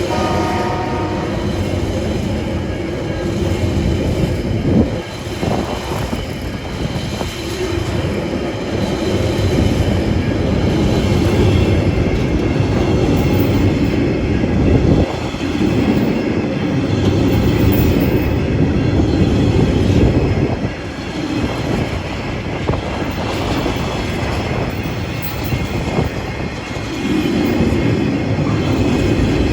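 Freight train rolling past at close range: a steady rumble and clatter of steel wheels on the rails that swells and eases every few seconds as the wagons go by.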